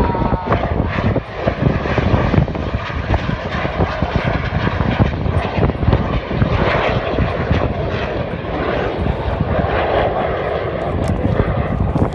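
Northrop F-5E Tiger II fighter jets of a display team flying past, giving a loud, steady rush of turbojet noise that swells and fades a little.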